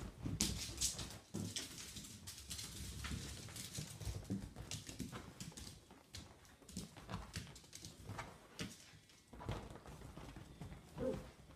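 Two Yorkshire terriers, a puppy and an adult, play-fighting: an irregular run of scuffling, scrabbling and pattering paws with many small knocks and clicks, and a brief pitched sound near the end.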